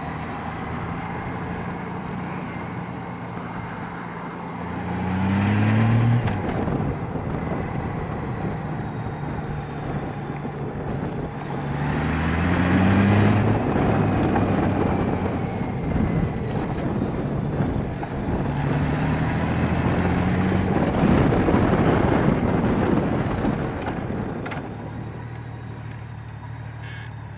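Honda Valkyrie's flat-six engine under way on the road, pulling up through the revs three times, about 5, 12 and 20 seconds in, with the pitch climbing each time before settling. Wind and road noise grow louder with each pull.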